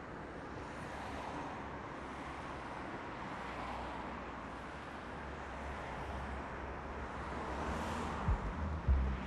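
Road traffic noise: vehicles going by on a wide road, a steady rush that swells and fades as each one passes. A few low thumps come in near the end.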